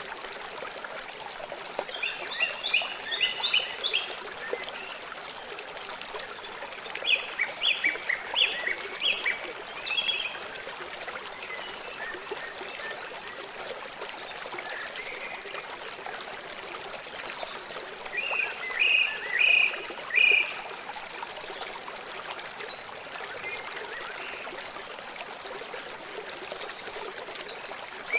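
A stream running steadily, with a songbird singing three short bursts of quick, high repeated notes over it.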